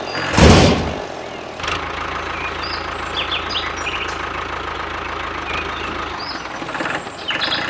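An engine running steadily at a low even pitch for several seconds, with birds chirping over it. A short loud burst of noise comes about half a second in.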